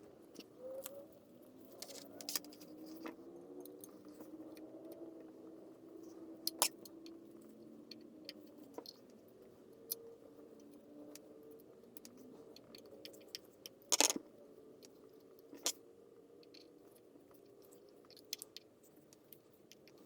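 Small metal parts and hand tools clinking and clicking as an antique electric fan is put back together, in sharp irregular taps with a louder clank about 14 seconds in. A faint, wavering hum runs underneath.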